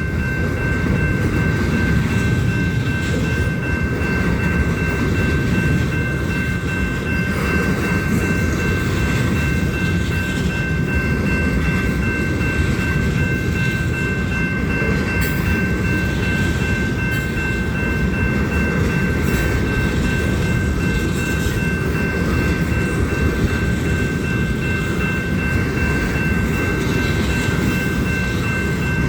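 Union Pacific train's cars rolling steadily past on the rails with a continuous rumble, and a steady high-pitched ringing tone held throughout.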